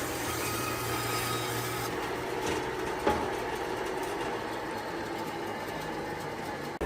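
Woodworking machine running steadily, its hum shifting about two seconds in, with a single knock a second later.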